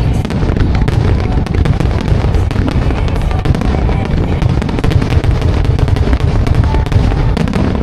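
Fireworks barrage: shells bursting in continuous low booms with dense rapid crackling, over music played with the show.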